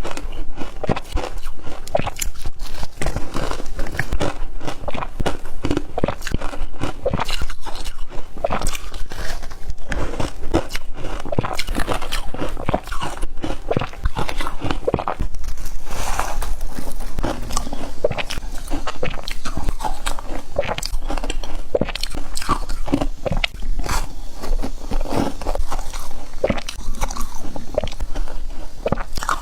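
A person chewing shaved ice, with dense, continuous crunching throughout.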